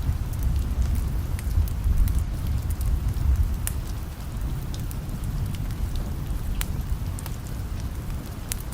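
Steady rain with a low rumble underneath, and the scattered sharp pops and crackles of a wood fire burning in a fireplace.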